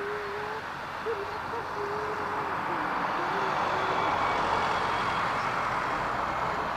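Jet airliner engines, a steady roar that swells to its loudest about four seconds in. Over the first three seconds a bird gives a low, wavering hooting call in short phrases.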